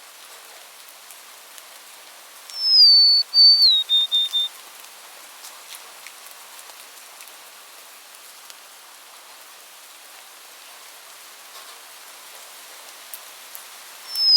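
A songbird's whistled song: one phrase of a few clear notes stepping down in pitch, about two and a half seconds in, and starting again at the very end. Under it runs a steady hiss of rain.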